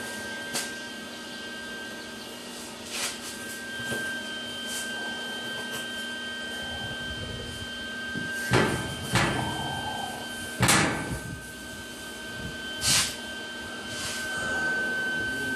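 A steady hum with a constant high whine, broken by about six short knocks and clunks, most of them in the second half.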